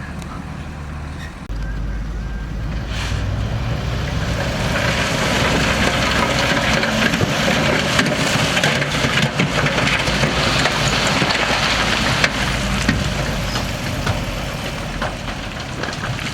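Heavy diesel earthmoving machinery running with a steady low engine hum that steps up about a second and a half in. A broad rushing noise joins from about four seconds in.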